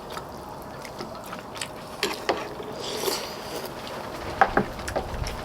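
Irregular light clicks and knocks of eating utensils against dishes during a meal, over a steady low background hiss.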